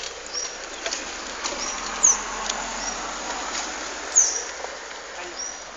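Birds chirping: short high calls, with the sharpest and loudest about two seconds in and again about four seconds in, over a steady hiss of background noise.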